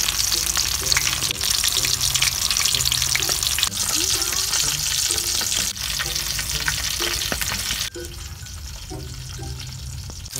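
Smoked sausages frying in hot oil in a steel wok: a steady sizzle full of small crackles and pops, quieter for the last couple of seconds.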